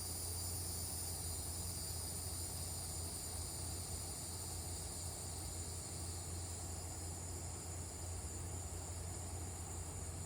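Steady evening chorus of crickets and cicadas, a continuous high-pitched trilling, over a low steady rumble.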